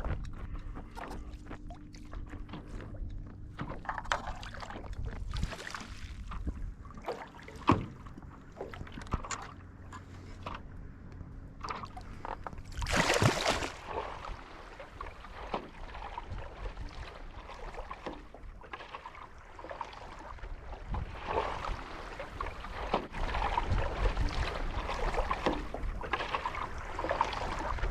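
Water sloshing and splashing around a stand-up paddleboard, with irregular knocks and one louder splash about 13 seconds in.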